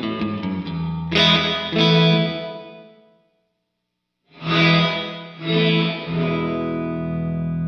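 Fender Stratocaster played through an overdrive and the Sonicake Sonic Ambience delay-and-reverb pedal into a Vox AC30 amp. Picked notes and chords ring out and die away to silence about three seconds in. After about a second, two struck chords come in and sustain with delay and reverb.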